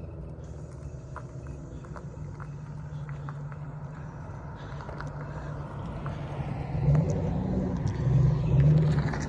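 A car engine running steadily outdoors. It grows louder twice near the end.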